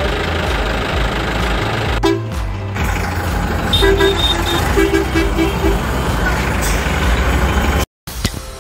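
A truck engine running steadily, with a quick run of short horn toots about four seconds in; the sound cuts off abruptly near the end.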